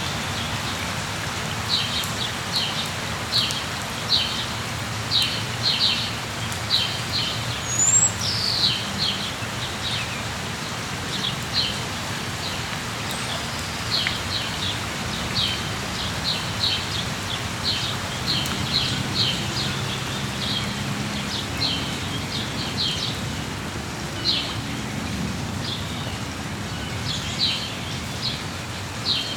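Steady rain falling, with a bird chirping over it in many short, high notes, often in quick pairs or triplets, and one higher gliding note about eight seconds in.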